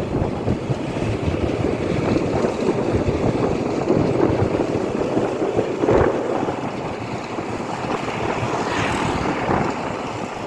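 Tractor engine running, with wind buffeting the microphone as a steady, loud rushing noise.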